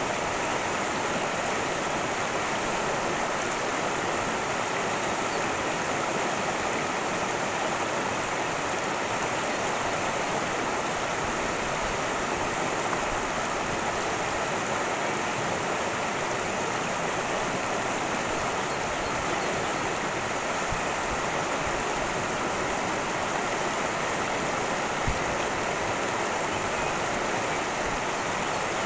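Cascading stream of water rushing steadily and evenly.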